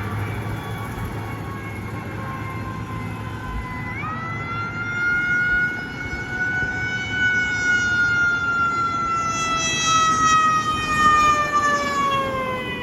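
Fire rescue vehicle siren passing, a single held tone that jumps up in pitch about four seconds in, then falls slowly and steadily through the rest, over traffic noise.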